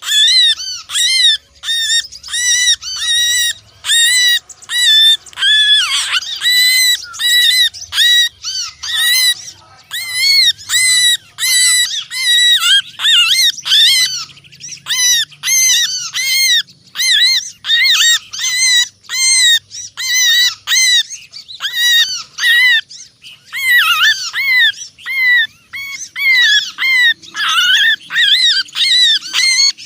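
Several small birds giving rapid, harsh, overlapping chirps and chattering calls in fast repeated runs. This is a bird-lure recording of agitated and trapped-bird distress calls, used to draw small birds such as prinias, bulbuls and sunbirds in close.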